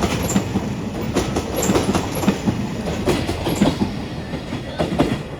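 Freight train of Koki container flatcars rolling past, its wheels clattering over the rail joints in a run of sharp clicks over a steady rumble.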